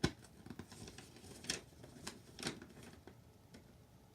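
Paper being handled as a letter is taken out and unfolded: a sharp click or snap right at the start, then two brief rustles about a second apart.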